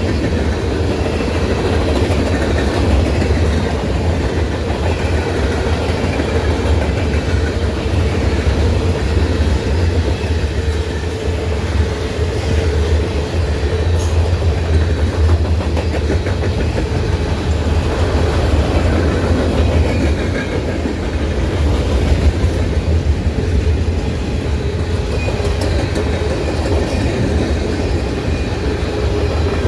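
Norfolk Southern freight train rolling past, a steady low rumble of the cars with wheels clicking over the rails.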